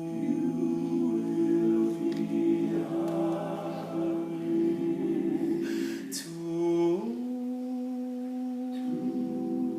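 Male a cappella vocal group holding long sustained closing chords, the harmony moving to a new chord about seven seconds in and again near the end.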